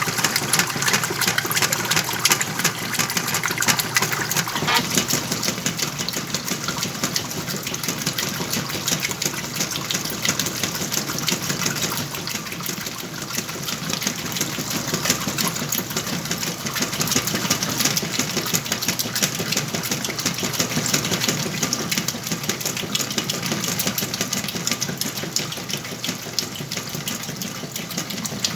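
Whirlpool washing machine running a load, its motor going under a steady sloshing and rushing of water.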